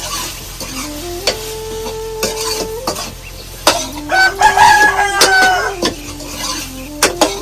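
A rooster crows once, in the middle, amid clinks and scrapes like utensils being stirred in a pot. Under it runs a held tone that shifts pitch in steps.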